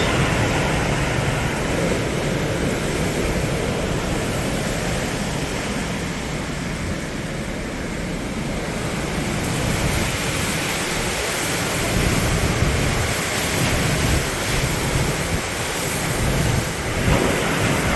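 Hurricane wind blowing hard in gusts, buffeting the microphone.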